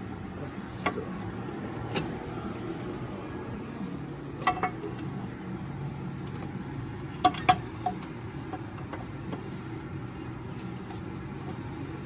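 Metal tools and parts clinking during hands-on engine work: a few sharp single clinks, then a quick pair about seven seconds in, over a steady low hum.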